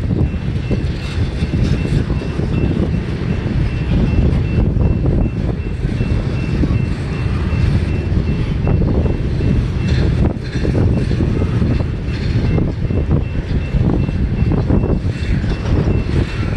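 Freight train's intermodal cars rolling past: a steady, loud low rumble and clatter of wheels on rail, with a faint steady high whine, while strong gusting wind buffets the microphone.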